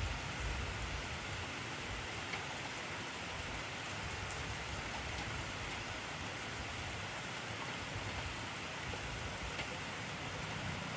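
Heavy rain falling steadily, a dense even hiss of drops, with a low rumble in the first second or so.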